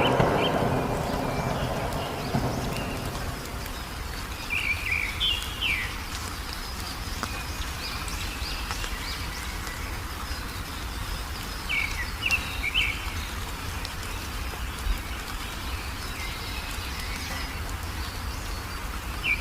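Wild birds calling in short chirping phrases, a few times over a steady low background. A rumble of thunder dies away in the first few seconds.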